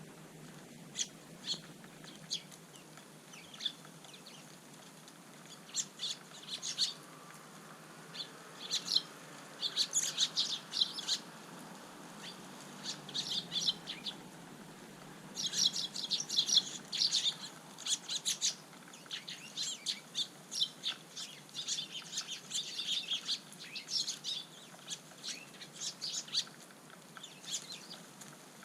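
Eurasian tree sparrows chirping: many short, high calls, scattered at first and coming thick and fast from about halfway through.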